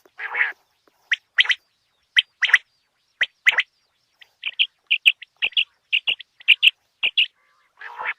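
Common quail calling: short, sharp notes in quick groups about once a second, then a faster run of paired notes. A lower, rougher note comes just at the start and again near the end.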